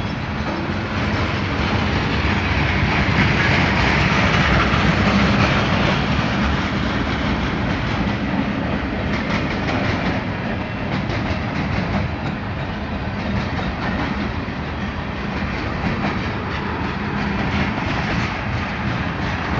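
Railroad cars rolling past, steel wheels clacking over rail joints with a continuous rumble. It is loudest a few seconds in, with sharp wheel clicks coming thick and fast in the second half.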